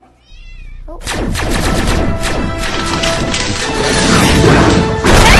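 A cat meowing. Its first calls are faint, then one comes near the end over loud, dense clattering noise and music.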